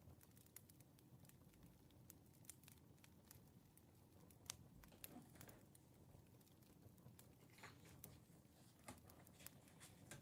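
Faint crackling of a wood fire, with irregular small pops and snaps over a low hiss.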